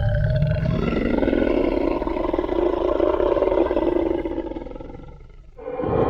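Tyrannosaurus rex roar sound effect: a long, deep, growling roar that fades out about five seconds in, with a second roar starting just before the end.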